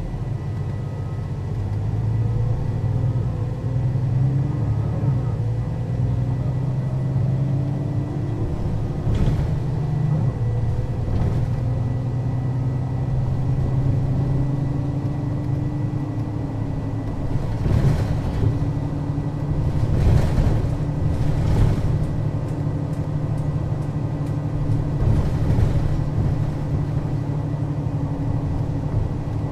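Mercedes-Benz O 530 Citaro city bus (2001) driving, its diesel engine note climbing slowly through a long pull, with a thin steady high whine. Several short knocks come through about a third of the way in and again in the second half.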